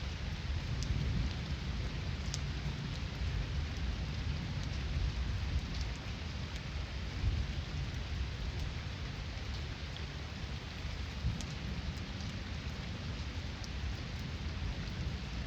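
Heavy rain falling steadily, with scattered sharp drop ticks close by, over a low rumble of distant thunder that swells and fades.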